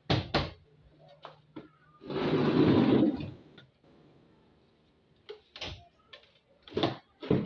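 Sharp knocks and clicks of washing-machine parts being handled and fitted during a repair, with a rough scraping noise lasting about a second near two seconds in.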